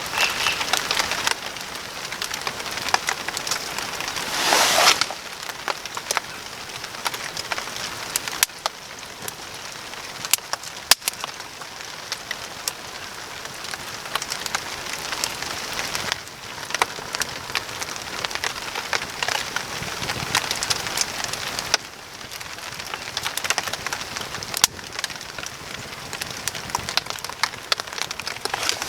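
Small fire of seed pods and wood crackling and popping, with rain pattering steadily. A brief louder rush comes about four to five seconds in.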